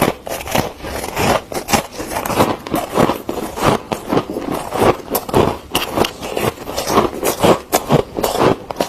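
Freezer frost being scraped and crunched: a dense run of short gritty strokes, several a second.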